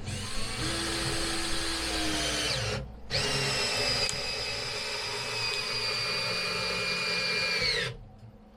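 Power drill running in two long stretches with a short break about three seconds in, driving bolts into the 25-year-old deck framing; its whine sags and drops in pitch as each stretch ends.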